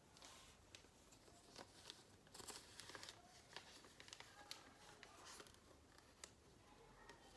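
Faint rustling and crinkling of a paper calendar sheet being folded and creased into a paper airplane, with scattered soft crackles.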